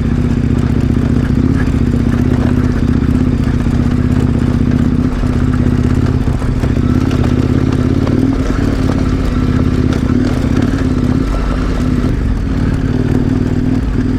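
KTM 1090 Adventure R's V-twin engine running steadily under way, with light clatter over the ride.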